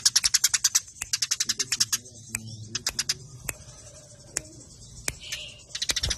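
Eurasian tree sparrows chattering in rapid trains of short, sharp chirps, the fast, tight calling of sparrows squabbling. The chirps come in a dense run at the start, thin out in the middle, and pack together again near the end.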